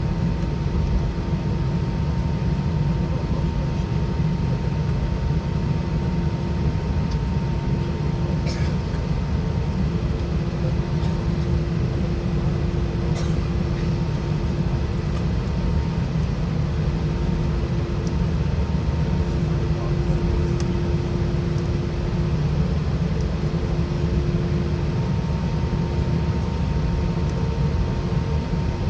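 Steady cabin noise inside an Airbus A320 with its IAE V2500 engines running: an even low rumble with a steady hum, and a few faint ticks.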